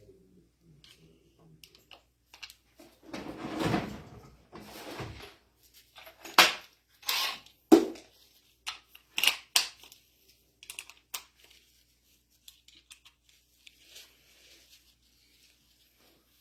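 Hand tools and metal valve parts being handled while a mini excavator's hydraulic control valve is taken apart. A scraping rustle comes a few seconds in, then a run of sharp metallic clinks and knocks, with a few faint ticks near the end.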